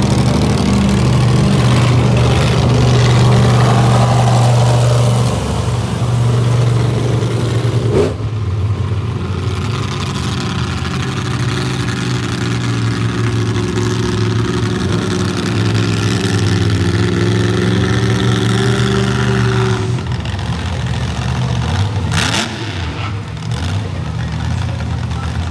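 Monster truck engine running loud with a steady, slowly shifting note, with a sharp crack about eight seconds in.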